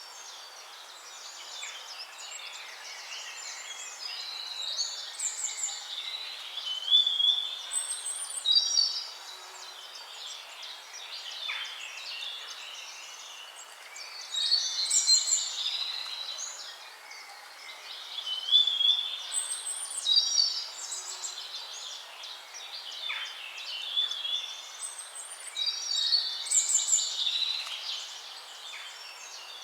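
Songbirds singing: several birds' song phrases repeating every few seconds over a steady background hiss.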